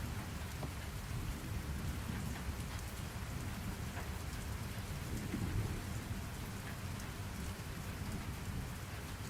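Steady rain ambience: an even hiss of falling rain with faint scattered drop ticks over a low rumble of distant thunder, which swells briefly about five seconds in.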